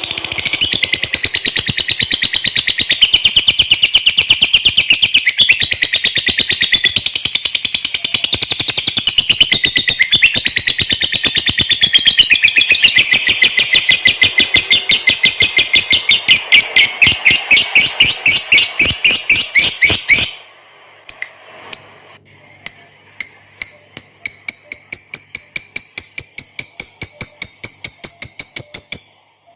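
Lovebird's long, rapid chattering song ("ngekek panjang"): a fast, unbroken run of high chirps. It breaks off about twenty seconds in and resumes after a moment as a thinner string of chirps.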